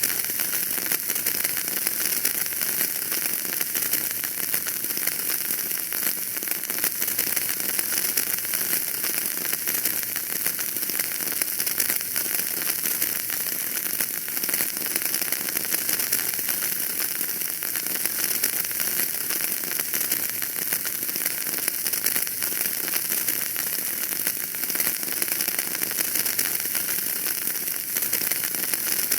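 Wood fire crackling in a fireplace: a steady, dense run of small crackles and pops, with no larger snaps standing out.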